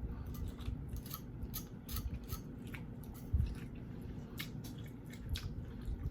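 A person chewing food close to the microphone: a run of small, irregular wet clicks and crunches.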